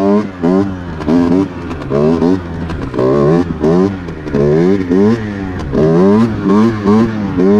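Rieju RR two-stroke dirt bike engine revving hard and dropping back again and again, its pitch rising and falling in quick sweeps.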